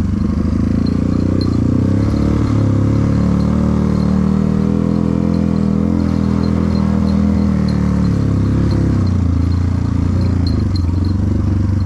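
Trail motorcycle engine running under load. Its note climbs about a second in, holds higher, then drops back to a lower note about nine seconds in.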